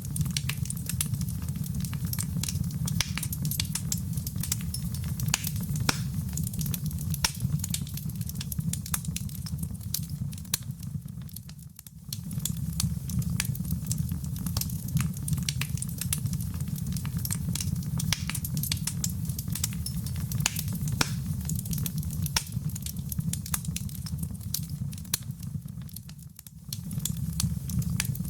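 Wood fire in a fireplace crackling, many sharp pops and snaps over a steady low rumble of the flames. The sound dips briefly twice and comes straight back.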